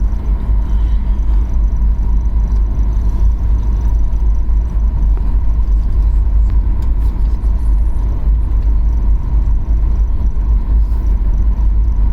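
Airliner cabin noise: a steady low rumble with a thin, steady whine above it.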